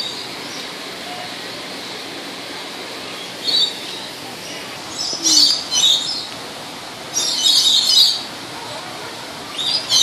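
Birds chirping in short clusters of high calls, several times, the longest about seven to eight seconds in, over a steady outdoor background.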